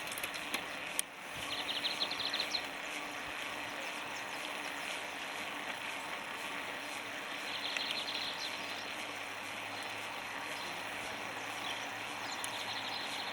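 Steady wind and rolling noise of a bicycle ride, with two short bursts of fast ticking, one about a second and a half in and one about halfway through.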